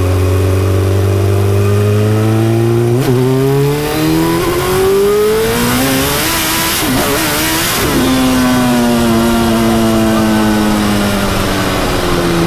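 Turbocharged Suzuki Hayabusa inline-four in a Reliant Bond Bug three-wheeler, pulling hard with its pitch climbing for several seconds. There is a brief dip about three seconds in. A rush of hiss comes around the peak, then the engine note falls steadily as the car slows.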